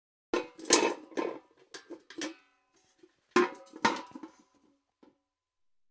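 Metal bucket being knocked and handled: a burst of clanks for about two seconds, a short pause, then a second burst and one last light knock, the metal ringing on after the hits.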